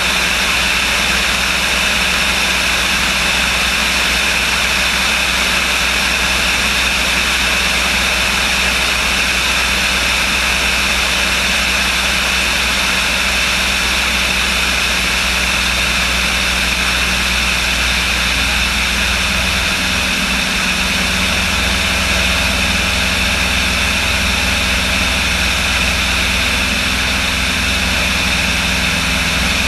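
Light aircraft engine running steadily at a constant drone. The engine note shifts about twenty seconds in.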